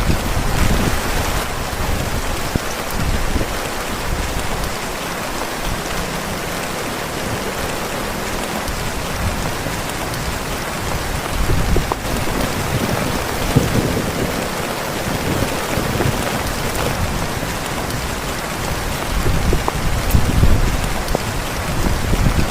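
Heavy rain pelting a tent's fabric in a steady downpour, with deep low rumbles swelling near the start and again in the last few seconds.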